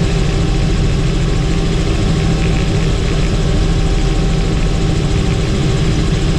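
Helicopter in flight: steady engine and rotor noise, strongest in the low end, with no change in pitch or level.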